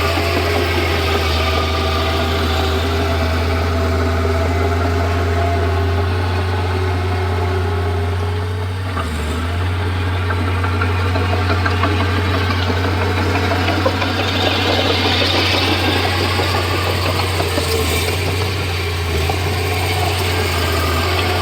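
Komatsu D31P bulldozer's diesel engine running steadily under work. The note dips briefly about nine seconds in.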